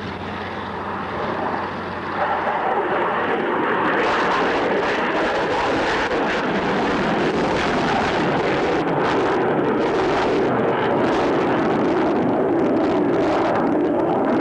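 Jet aircraft making a display pass: a loud, noisy engine sound swells about two seconds in and then holds steady.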